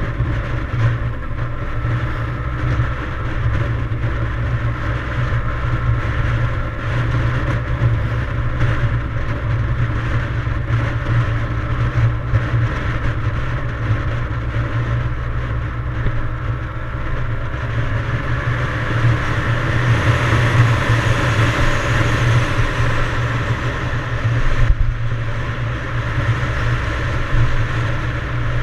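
Yamaha DT175 dirt bike's single-cylinder two-stroke engine running steadily while riding, a little louder about two-thirds of the way through.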